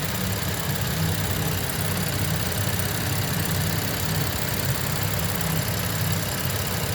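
BMW N55 3.0-litre turbocharged straight-six engine of an F30 335i idling steadily, with no revving.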